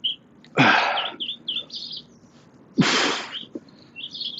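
Two forceful exhales from a man straining through exercise reps, about two seconds apart, with small birds chirping throughout.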